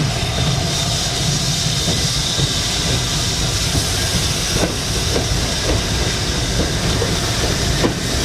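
Steam-hauled train running past: a steady hiss of steam over a low rumble, with a few clicks from the wheels on the rails.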